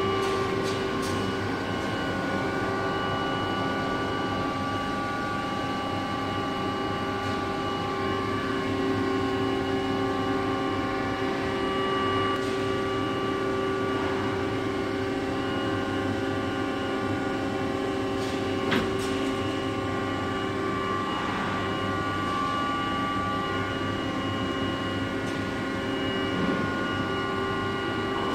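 Gildemeister MD6S CNC lathe running: a steady machine drone with several held whining tones, broken by a few sharp clicks, the loudest about two-thirds of the way through.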